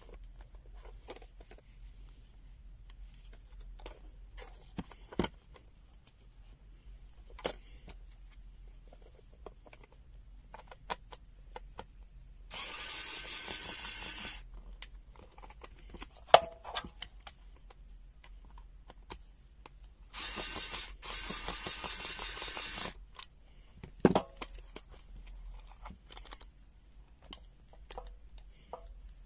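Clicks and knocks of a plastic multimeter case being handled and taken apart. Twice there is a run of about two seconds of a small power tool, likely an electric screwdriver undoing the case screws.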